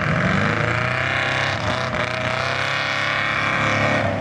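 Mud truck's engine running hard at high revs, a loud steady drone that wavers slightly in pitch.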